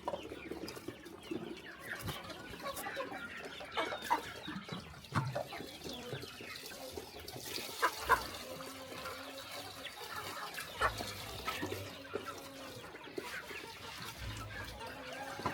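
Chickens clucking, with a few sharp knocks among the calls, the loudest about four and eight seconds in.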